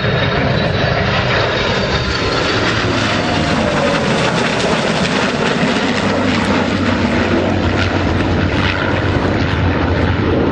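F-22 Raptor's twin Pratt & Whitney F119 afterburning turbofans in flight during its demonstration routine: a steady, unbroken rush of jet noise with a deep low rumble.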